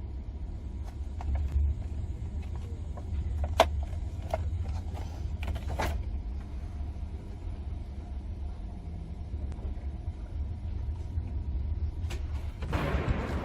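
Steady low rumble of a moving passenger train heard from inside the carriage, with a few sharp clicks and creaks about four to six seconds in. Near the end a louder rushing noise sets in.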